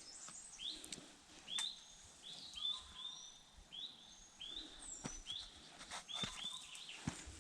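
Wild birds calling in woodland: a short chirping note repeated about once or twice a second, with a few higher thin whistles, and a few sharp clicks.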